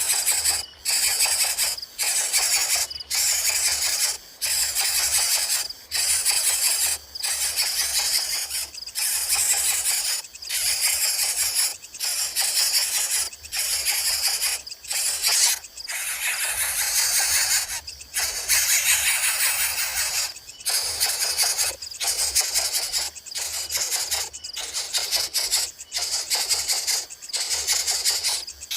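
Coucal chicks begging with raspy, hissing calls in a steady rhythm, about one a second.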